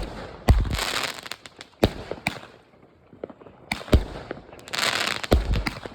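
Fireworks going off: a string of sharp bangs, several followed by bursts of crackling.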